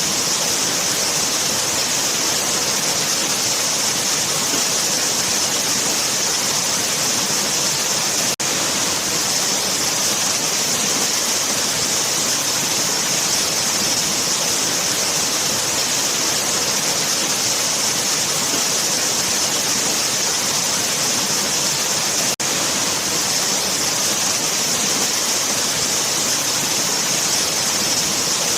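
Waterfall: a steady, even rush of falling water that dips very briefly twice.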